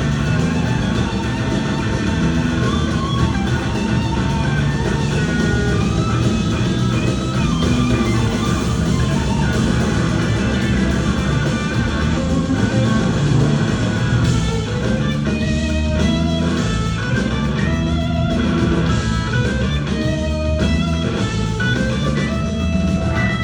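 Live rock band playing an instrumental, electric guitar leading over drums and bass. In the second half the whole band plays short accented hits together, with brief gaps between them.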